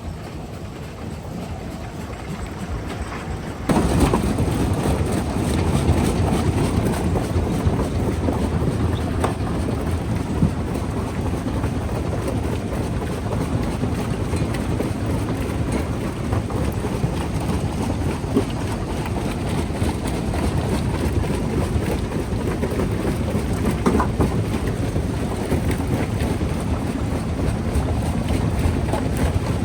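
Jaw crusher running and breaking rock: a steady heavy mechanical rumble with rattling and scattered knocks, getting louder about four seconds in.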